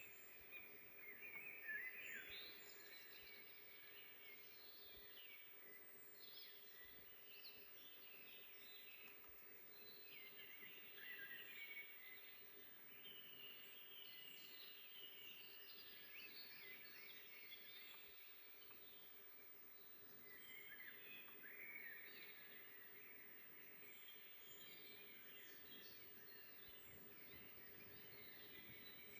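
Faint forest birdsong: several small birds chirping and trilling over one another, with a faint steady low hum underneath.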